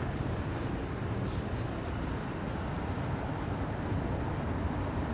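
Steady city street noise of passing road traffic.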